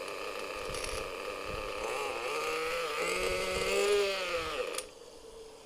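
Nitro .18 engine of an RC truck running, its pitch rising and falling as it revs, then cutting off abruptly near the end, leaving only a faint hum. By the sound of it, the owner takes it that the pinion bell has come off.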